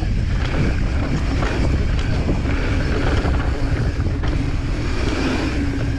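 Wind buffeting the camera microphone on a fast mountain bike descent, over a steady rumble of knobby tyres on dirt and rock, with the bike rattling and knocking on rough ground.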